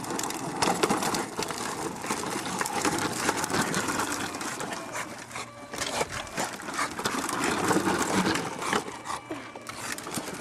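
Battery-powered ride-on toy truck running: its small electric motor whirring and its plastic wheels rattling over the ground, in an uneven, clattering run.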